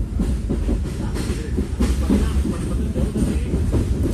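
Passenger train coach running along the track, heard from inside the carriage: a steady low rumble of wheels on rails, with a few sharp clicks as the wheels pass over the rails.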